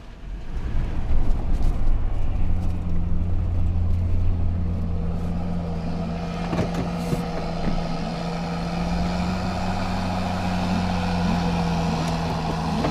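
Truck engine and road noise heard from inside the cab while driving: a steady low drone that gets louder about a second in as the truck pulls away, then holds even.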